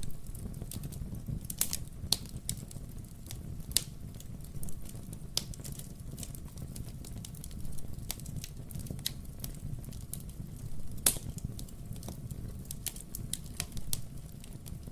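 Wood fire burning in a fireplace: irregular sharp crackles and pops from the burning logs over a steady low rumble of the flames, with a few louder pops scattered through.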